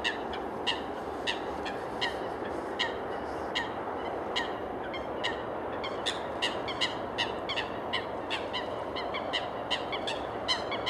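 Birds calling over and over: short, sharp calls several times a second, with brief pauses, over a steady rushing background noise.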